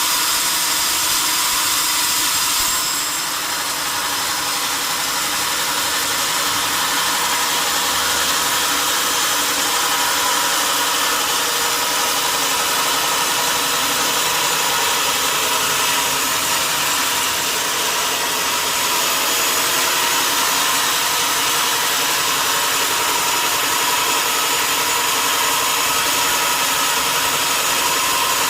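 Sawmill machinery running steadily: a loud, even mechanical noise with a faint steady hum.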